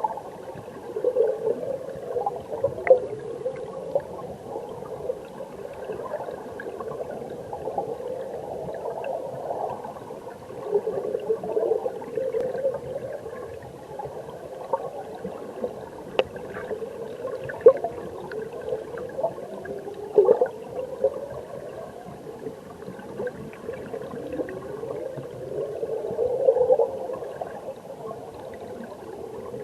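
Mountain stream water heard from underwater: continuous muffled gurgling and bubbling, with frequent sharp little pops and short rising sweeps of bubbles.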